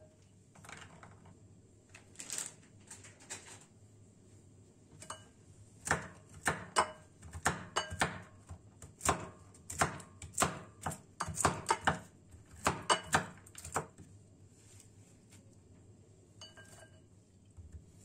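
Kitchen dishes and utensils clinking and knocking against each other, a few scattered knocks at first, then a busy irregular clatter of about two knocks a second in the middle, some with a short ring.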